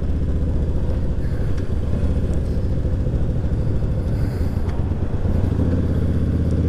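Yamaha V-Star 1100 Classic's air-cooled V-twin engine running steadily under the rider, its note shifting slightly about five and a half seconds in.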